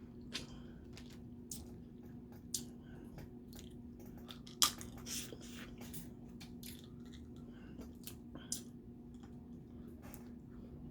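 Close-miked eating of boiled crawfish: shells cracked and peeled by hand with small wet squishes and crunches, along with chewing. It comes as scattered sharp clicks, the loudest about four and a half seconds in.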